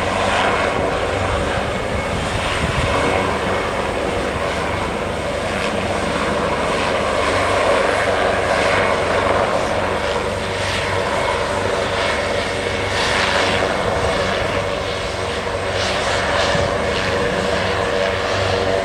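Aerospatiale AS332L1 Super Puma helicopter's twin turboshaft engines and rotor running steadily, a continuous loud turbine and rotor noise.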